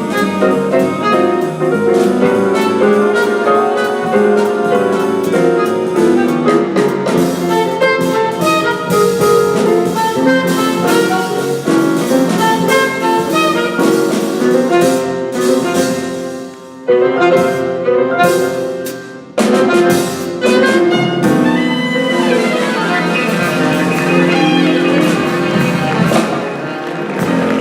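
Live small-group jazz with an alto saxophone over piano and drum kit. The band cuts off abruptly twice for a moment around the middle, then plays on.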